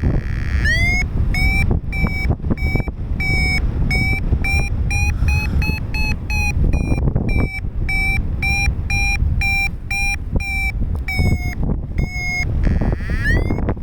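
Paragliding variometer sounding its climb tone: short electronic beeps repeating about two to three times a second, creeping slightly higher in pitch, with two brief pauses. This signals the glider is climbing in lift. Under it, steady wind rush on the microphone.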